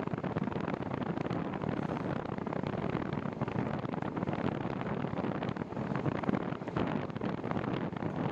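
Wind buffeting the microphone of a camera on a moving bicycle: a dense, uneven rush with rapid gusty thumps.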